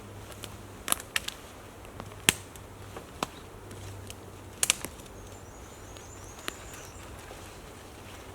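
Scattered sharp knocks and clicks, about a dozen spread irregularly, over a low steady hum, with a brief faint high twittering in the middle.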